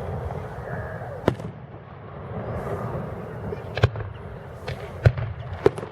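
Aerial fireworks shells bursting: a few sharp, separate bangs at irregular intervals, two of them coming as quick doubles, over a steady background rumble.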